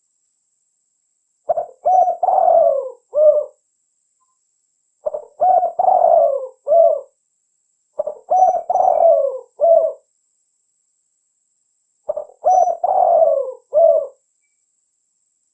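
Spotted dove (tekukur) cooing in repeated phrases: four song phrases of several low, mellow notes, each about two seconds long, with short pauses between them.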